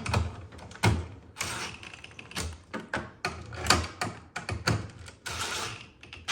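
Irregular clicks and light knocks, several a second, from a refrigerator door's adjustment screws being retightened with hand tools.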